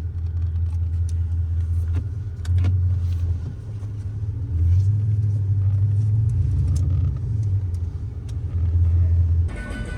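Chrysler 300C's 5.7-litre HEMI V8 running at low speed, heard from inside the car as it creeps onto grass. A deep rumble swells and eases several times with the throttle, with scattered light knocks and rattles. Music cuts in near the end.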